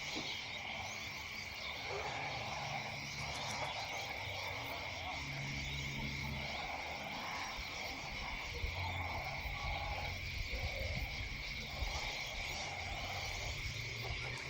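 Evening chorus of frogs and insects: frogs call over and over, roughly once a second, over a steady, unbroken high insect trill.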